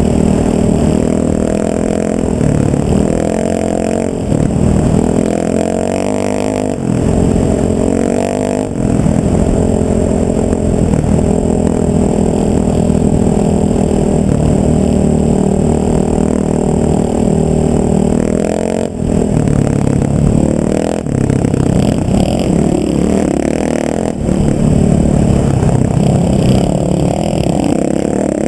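A vehicle engine runs under way. Its pitch climbs and drops again several times as it changes speed and gears.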